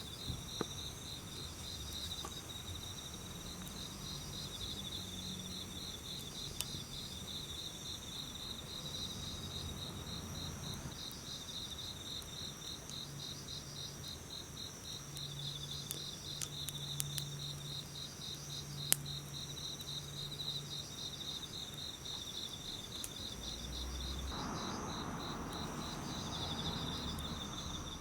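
Autumn insects chirping in fast, even pulsed trills, two kinds at different pitches, with a few sharp crackles from a wood fire. A soft rush of noise rises near the end.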